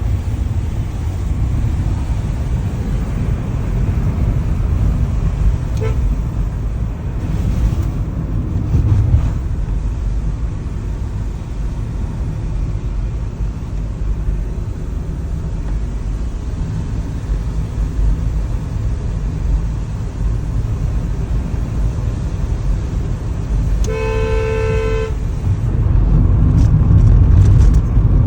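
Steady low rumble of a vehicle travelling on the road, with one vehicle horn honk of about a second near the end.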